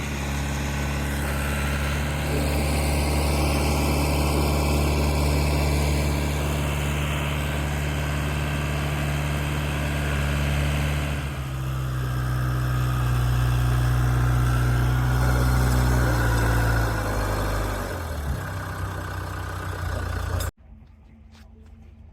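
A vehicle engine running steadily. Its pitch steps down about halfway through and again a little later, and it cuts off suddenly near the end.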